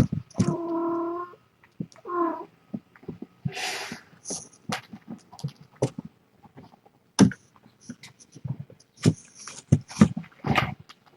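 A cat meowing: one long drawn-out meow about half a second in and a shorter one around two seconds, followed by scattered small clicks and rustles of handling.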